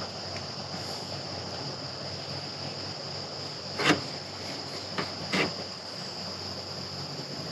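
Crickets trilling steadily in the background, with a couple of short clicks about four and five and a half seconds in.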